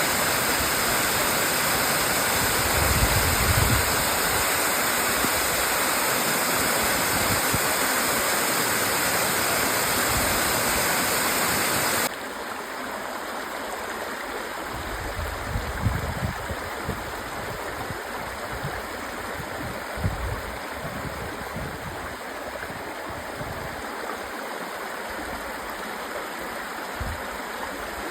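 Waterfall rushing, a steady roar of falling water. About twelve seconds in it cuts suddenly to a quieter stretch of falling water, with a few brief low thumps.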